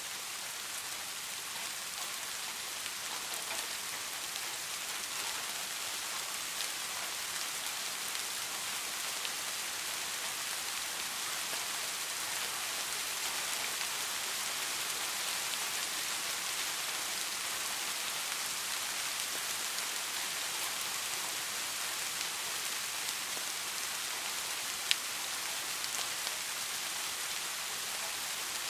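Steady rain falling, a dense even patter and hiss, with one sharper single drop or tick standing out near the end.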